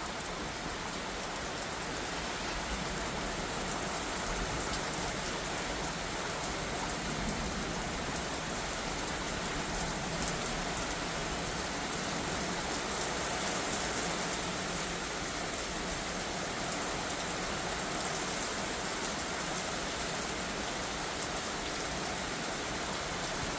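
Heavy thunderstorm rain falling hard, a steady, even hiss of downpour.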